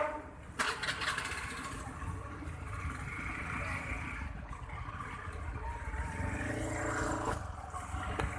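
A motorcycle engine running, with its pitch shifting, from about five to seven seconds in. A steady low rumble of background noise sits under it.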